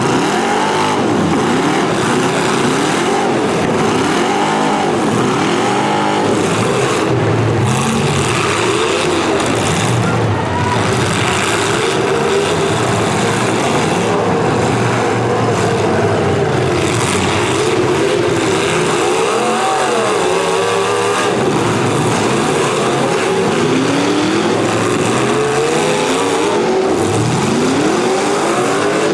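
Several V8 demolition derby car engines revving up and down over one another, loud and continuous, their pitches rising and falling out of step.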